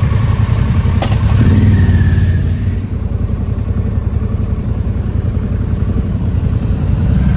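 Motorcycle engine running with a low, steady note, with a sharp click about a second in.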